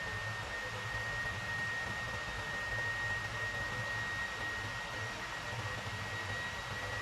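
A small motor-driven fan or blower running steadily: an even rushing hiss with a high whine that drifts slightly upward in pitch, over a low hum.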